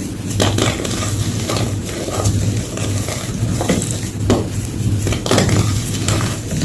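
Gym chalk crunching and crumbling, in irregular crisp crackles roughly every half-second to a second, over a steady low hum.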